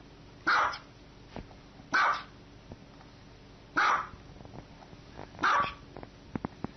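A dog barking four times: single barks spaced evenly, one every second and a half or so.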